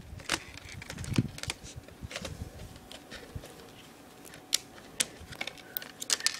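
Irregular plastic clicks, taps and handling noises as a laptop's display and its connector are worked loose during disassembly.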